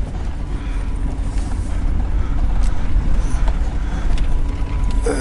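A car driving slowly, giving a steady low rumble of engine and road noise.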